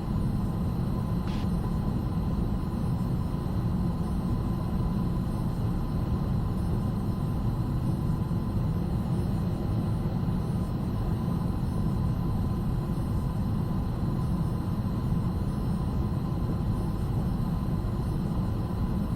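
Steady low rumble of a Boeing 757 freighter's flight deck on final approach, with airflow and engine noise and a faint steady high tone underneath.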